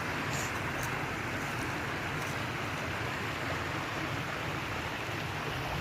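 Steady rush of flowing stream or river water, an even noise without pauses.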